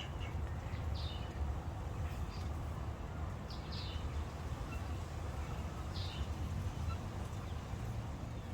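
Cape wagtail giving short, high, falling alarm calls, about five of them spaced a second or more apart: its call of danger. A steady low rumble runs underneath.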